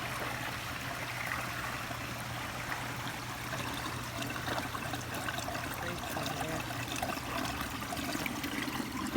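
Water running steadily along a gem-mining sluice trough, a continuous trickling flow.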